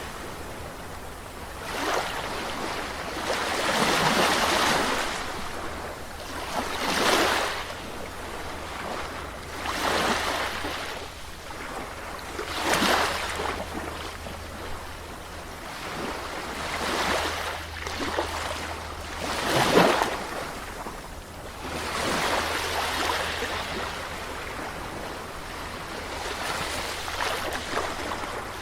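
Gentle sea waves breaking and washing on a shore, a surge of rushing surf every two to three seconds, the loudest about two-thirds of the way through. A steady low rumble sits underneath.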